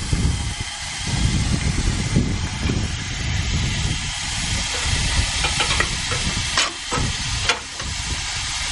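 Narrow-gauge steam locomotive hissing steam, a steady hiss over an uneven low rumble, with a couple of short clicks near the end.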